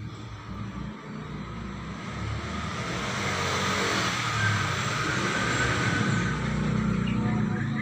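A motor vehicle going by close at hand, its engine and road noise growing steadily louder.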